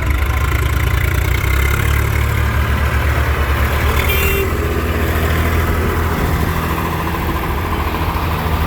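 Heavy diesel engine idling with a steady low throb, with a brief higher-pitched sound about four seconds in.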